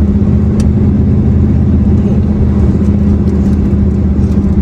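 Vehicle towing a caravan driving slowly over a bumpy, soft dirt track: a steady low engine drone and road rumble.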